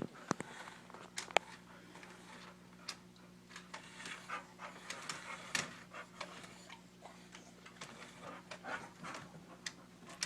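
Blue-nose pit bull panting and snuffling in short, irregular bursts, with scattered clicks, over a steady low hum.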